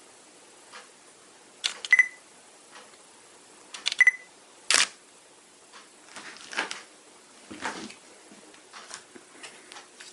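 Tamron AF 28-75mm f/2.8 lens autofocusing on a camera body: short bursts of clicking and whirring from the focus drive, with a single short camera focus-confirmation beep about 2 s in and again about 4 s in, and a sharp loud click just before 5 s. The focusing noise is one the owner finds odd and is unsure is normal.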